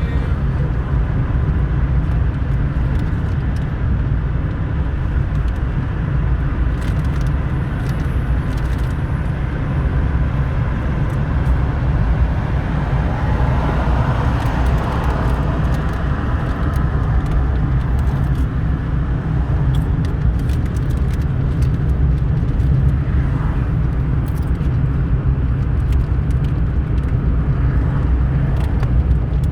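Steady engine and road noise heard inside a car's cabin, a constant low drone.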